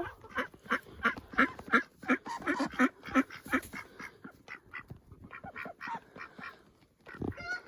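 Ducks quacking in a rapid run of short calls, thinning out and growing quieter after about four seconds.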